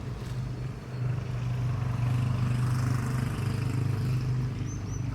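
An engine running steadily with a low, even drone, and a short high chirp near the end.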